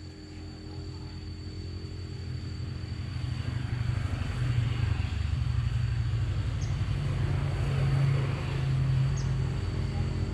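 A motor vehicle's engine running, growing louder over the first few seconds and then holding loud, with a thin steady high whine throughout.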